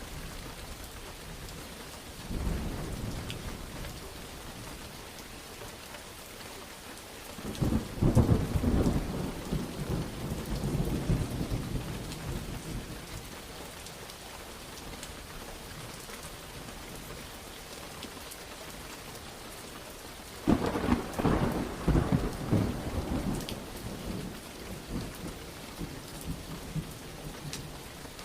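Steady rain falling, with rolling thunder breaking in three times: a light rumble about two seconds in, a loud crack and long rumble about eight seconds in, and another loud peal about twenty seconds in that rumbles on toward the end.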